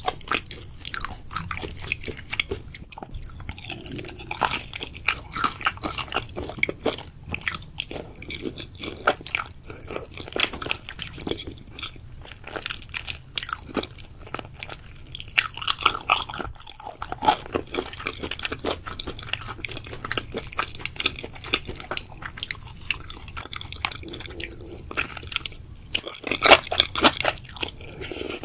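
Close-miked chewing and crunching of food in a mukbang, a dense, irregular run of crackles and clicks from the mouth as the food is bitten and chewed.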